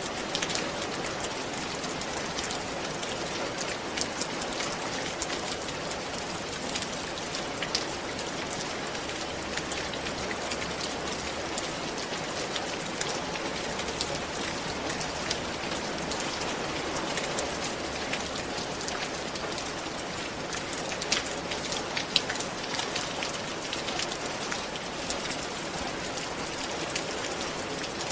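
Steady rain falling on a roof: a dense, even patter with many individual drops ticking and a few louder ones standing out.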